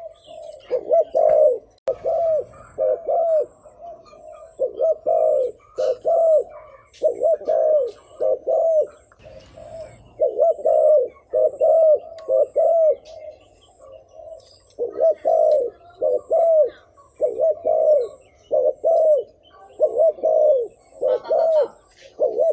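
Spotted dove cooing: short, deep coo notes in quick runs of two to four, repeated with brief pauses between runs. It is the rapid 'thúc gù' cooing of a male decoy dove, used to provoke and lure wild doves.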